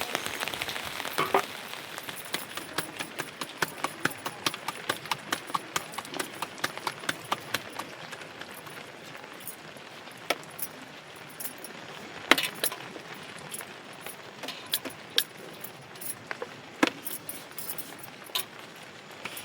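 Many sharp taps and clicks over a faint steady hiss, coming about three a second for the first several seconds, then fewer and more scattered, a few of them louder.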